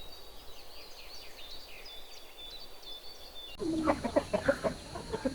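Birds chirping in quick, high calls. About three and a half seconds in there is a cut to louder, choppy clucking from chickens.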